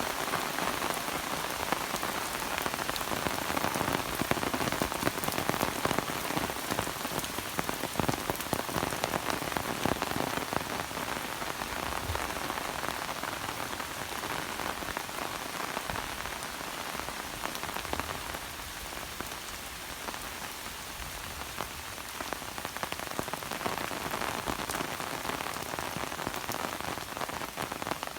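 Steady rain falling, with a dense patter of individual drops striking close by; it eases a little about two-thirds of the way through, then picks up again.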